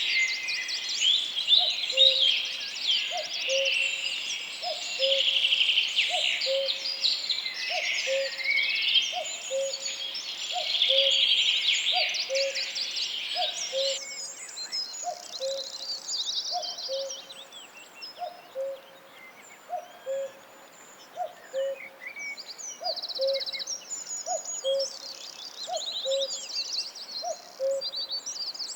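Forest birds singing: several songbirds trill and warble in a dense chorus that suddenly thins about halfway through. Under it a low hooting note repeats evenly, about once every three-quarters of a second.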